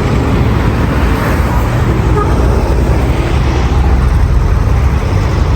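Steady road traffic: cars and other vehicles running past on a busy multi-lane boulevard, a continuous low rumble of engines and tyres.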